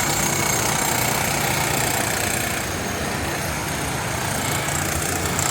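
City street traffic on wet roads: a motor vehicle's engine running steadily at idle nearby, over a continuous hiss.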